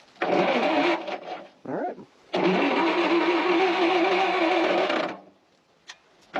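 Starter cranking the trencher's V4 engine in bursts, a short one and then a longer one of about three seconds, with a steady wavering drone that pulses with the compression strokes; the engine turns over but does not fire.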